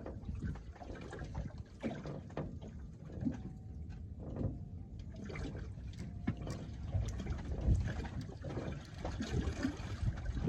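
Water lapping and slapping irregularly against the hull of a small boat, with a few light knocks.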